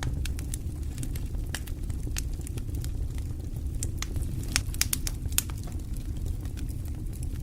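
Wood fire crackling: frequent sharp, irregular pops and snaps over a steady low rumble.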